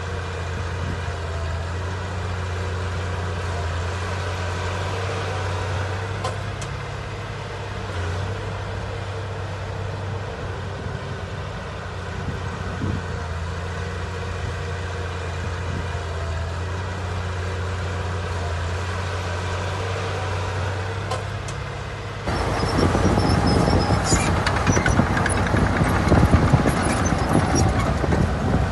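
Heavy diesel engine of earth-moving machinery running steadily with a low hum. About 22 seconds in, the sound suddenly jumps louder into a dense clattering and rattling over the engine.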